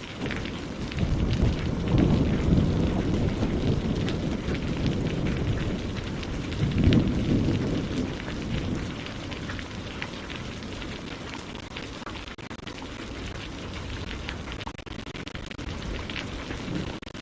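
Rainforest ambience of steady rain, with deep low rumbles that swell around two seconds in and again around seven seconds in, then fade.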